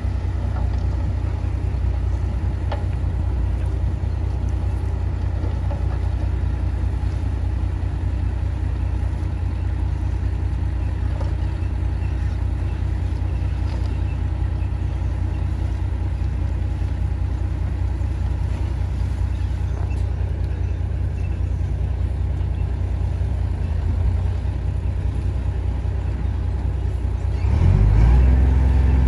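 Diesel engine of heavy earthmoving machinery running at a steady low rumble, then revving louder with a rising pitch near the end.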